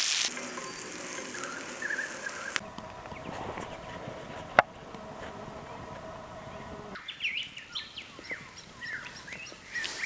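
Halloumi sizzling in a frying pan over a campfire, the hiss fading out within the first couple of seconds. Then birds chirping, busiest over the last three seconds, with one sharp click about four and a half seconds in.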